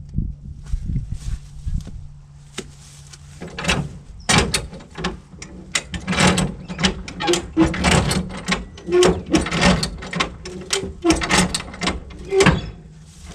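Hammer blows on the sheet-steel body of a Mini ute: from about three and a half seconds in, a long run of irregular heavy strikes, several with a short metallic ring.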